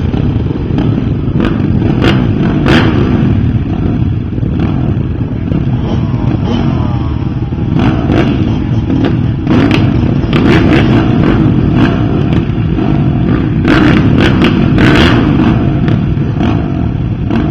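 Several dirt bike engines racing around a track, a dense steady rumble with engines revving up and down, broken by frequent sharp cracks.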